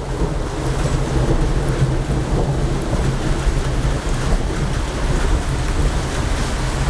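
Heavy rain falling during a thunderstorm, with a steady low rumble of thunder underneath.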